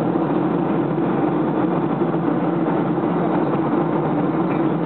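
Steady cabin noise of a Ryanair Boeing 737 jet airliner in cruise: an even engine and airflow rush with a constant low hum.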